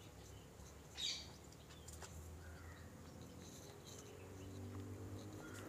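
Quiet background with a few faint bird chirps, one short call about a second in, over a low steady hum.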